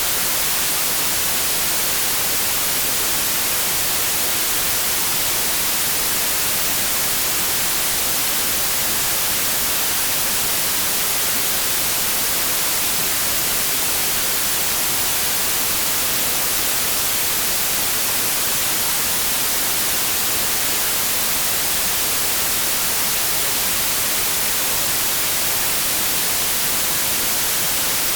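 Steady white noise: an even, unchanging hiss of static across the whole range of pitch.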